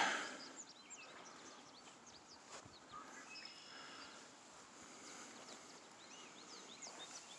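Faint, scattered short chirps and calls of a small flock of red-winged blackbirds, with a single soft knock about two and a half seconds in.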